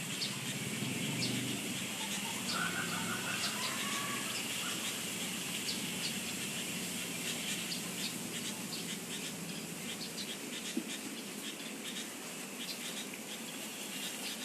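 Outdoor bird and insect ambience: a steady insect hum with many short, high chirps scattered throughout, and a faint warbling bird call about two to three seconds in.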